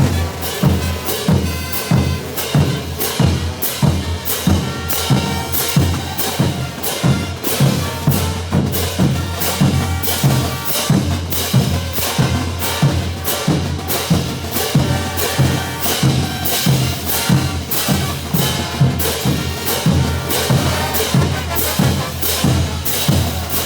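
Bolivian brass band playing live: bass drum, snare and cymbals keep a steady, even beat under sustained low brass.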